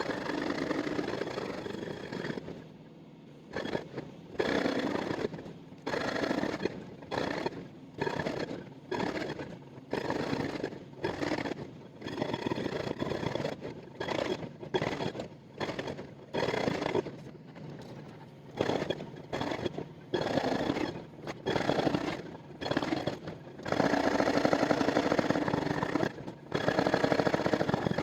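Excavator-mounted hydraulic breaker hammering in repeated bursts of half a second to two seconds, with short pauses between them in which the excavator's engine runs on. There is a longer stretch of hammering near the end.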